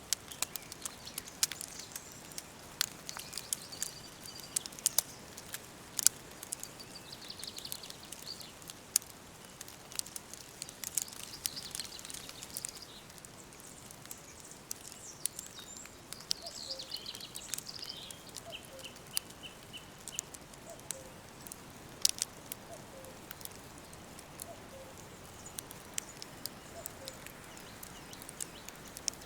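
Wood fire crackling with irregular sharp pops, mixed with birdsong: scattered bird calls, one bird giving a quick run of repeated notes about halfway through, and faint low repeated calls in the second half.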